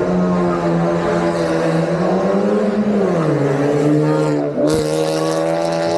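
Race car engine running hard at high revs. Its pitch sags about halfway, then dips briefly near the end as at a gear change, with a hiss joining in after it.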